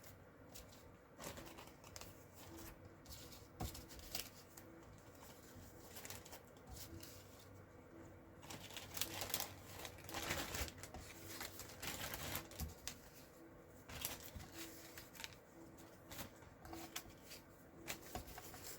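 Small pieces of cut cardstock being sorted and shuffled by hand, with irregular light rustles and clicks of paper against paper.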